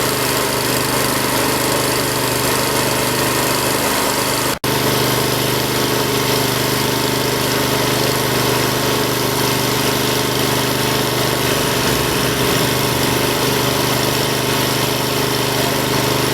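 An engine running steadily at an even speed, with a momentary drop-out about four and a half seconds in.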